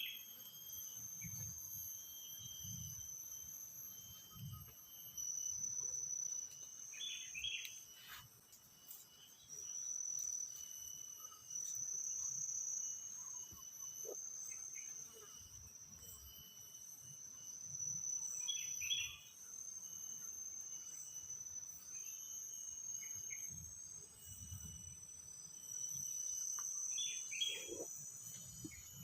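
Tropical forest insects, crickets and the like, trilling in steady high-pitched chorus, with a short chirping call repeating every several seconds and a few faint low knocks.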